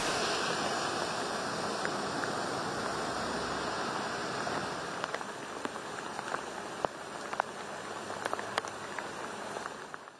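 Heavy rain and floodwater running through a street as a steady hiss. After about five seconds it grows a little quieter, with many sharp drips and splashes, and it fades out at the end.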